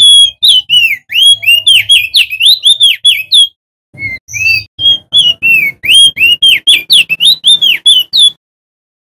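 Male crested white-eye (opior jambul) singing: two quick runs of loud, clear whistled notes that swoop up and down, with a short break between them. The song stops about eight seconds in.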